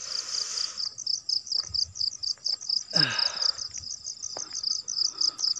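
Night insects chirping in a steady, rapid, evenly spaced high-pitched pulse. Two brief soft rustling noises come over it, one at the start and one about three seconds in.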